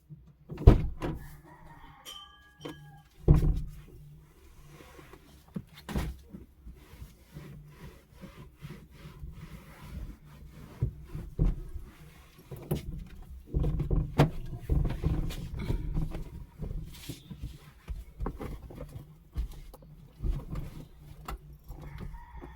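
Car-interior cleaning noises: irregular knocks and clatter of things being handled and wiped, with a brief squeak about two seconds in and another near the end, over a steady low hum.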